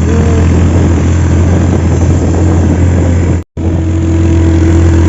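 A vehicle engine running steadily with a low drone, mixed with a rushing noise. It cuts out for a split second about three and a half seconds in, then carries on.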